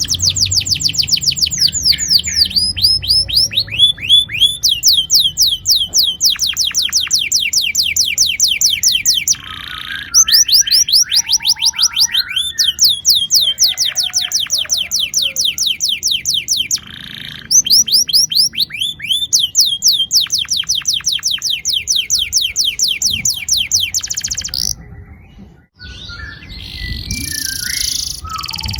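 Domestic canary singing long rolling trills: fast runs of repeated high notes, each sliding downward, about ten a second, in several long rolls broken by short pauses.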